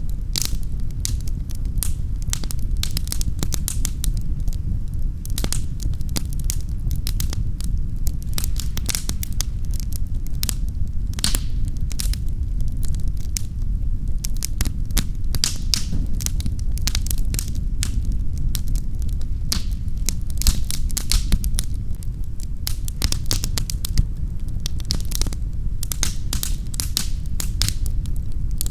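Wood fire crackling in a fireplace: constant rapid small pops and snaps over a steady low rumble of the flames.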